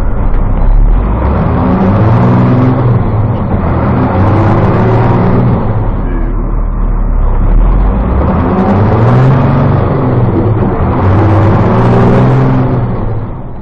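A diesel short bus's turbo-diesel engine run hard under load, climbing in pitch and dropping back about four times.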